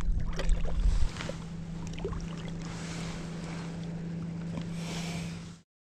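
Outdoor noise from a fishing kayak: wind on the microphone, louder in the first second, with small knocks and a steady low hum. It cuts off suddenly near the end.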